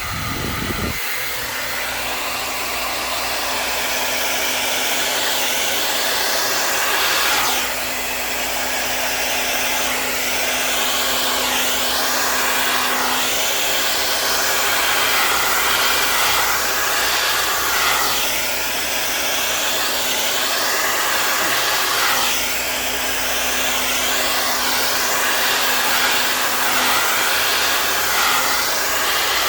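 Handheld hair dryer running continuously with a steady hum under the rush of air, blowing wet acrylic paint. The airflow noise swells and eases a little several times as the dryer is moved about.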